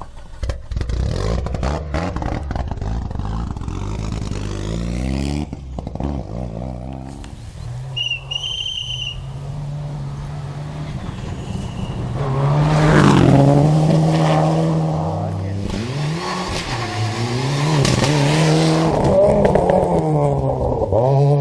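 Rally car engines at full throttle, revving up and dropping back through repeated gear changes as the cars pass. The sound is loudest about halfway through and again near the end.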